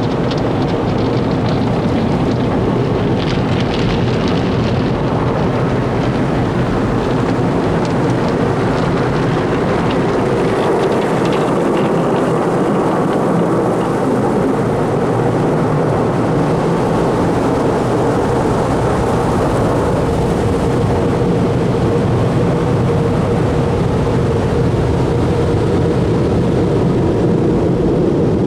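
Automatic conveyor car wash running around the car, heard from inside the cabin: a loud, steady hum and rush of the tunnel machinery, with a couple of spells of higher spray hiss.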